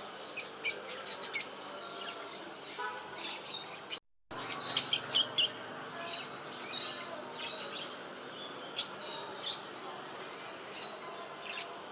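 Small pet birds chirping: a quick burst of sharp, high chirps about a second in and another around five seconds in, with scattered single chirps after. The sound cuts out briefly just before the second burst.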